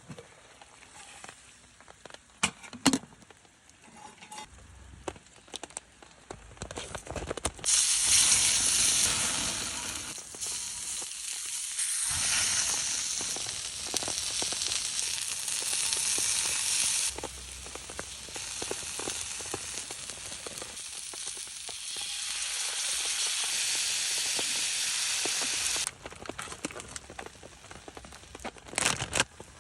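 Chicken for yakitori sizzling as it cooks over a campfire. A few sharp clicks and knocks come first; about eight seconds in a loud, hissing sizzle starts, jumps in level a few times, and cuts off abruptly about 26 seconds in.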